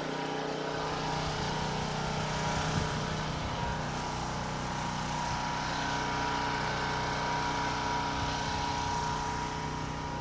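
Portable gasoline generator running steadily at a constant pitch.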